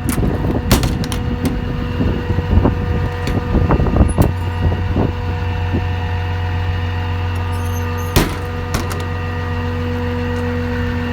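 A 6.7 Cummins diesel idling with a steady drone. Over it come the clicks, clunks and bangs of metal utility-box doors and latches being worked, thickest in the first five seconds, with one sharp knock about eight seconds in.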